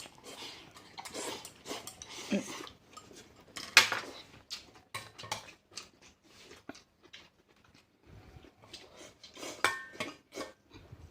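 Eating utensils clinking and tapping against bowls and plates at a meal: scattered irregular knocks, with a sharp loud knock about four seconds in and a few clinks that ring briefly near the end.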